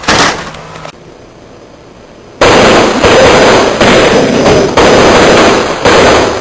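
A string of firecrackers going off in rapid, continuous crackling from about two and a half seconds in. It is very loud and distorted, and pulses in roughly one-second stretches after a single crack at the start.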